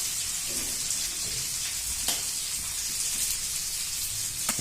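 Chopped onions sizzling in hot oil in a pan, frying toward golden: a steady high hiss, with a light click about two seconds in and another near the end.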